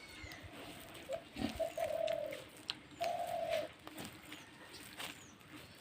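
A bird cooing in two steady calls, the first long and the second short, with scattered sharp clicks around them.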